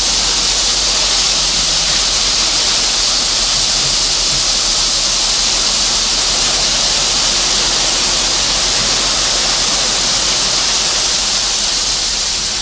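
A steady, loud rushing hiss, strongest in the high range, with a low hum underneath.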